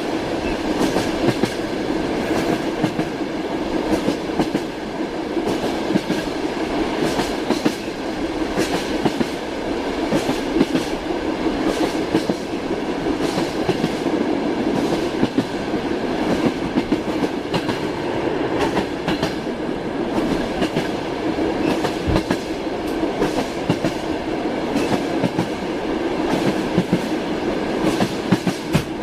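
Train running along the track: a steady rumble with the repeated clickety-clack of the wheels passing over rail joints.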